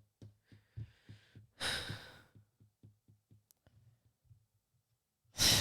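A person sighing, with long breathy exhales about one and a half seconds in and again near the end, over faint low thumping.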